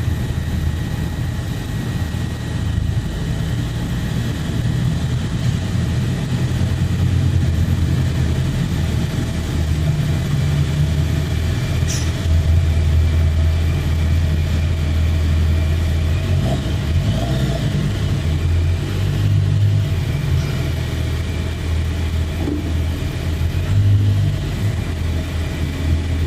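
Toyota Hilux pickup's engine running, a steady low rumble that swells and eases several times.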